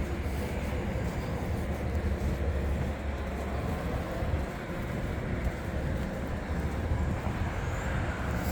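Steady low rumble of downtown street traffic, with a fainter hiss above it.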